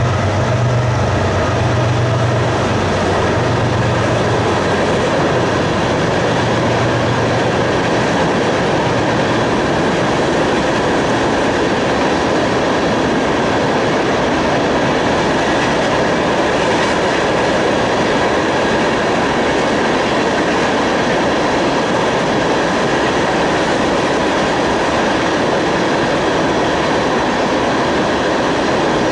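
Freight train of tank cars rolling past, a steady noise of wheels on rail. A low engine hum from the locomotives, already gone by, fades out over the first few seconds.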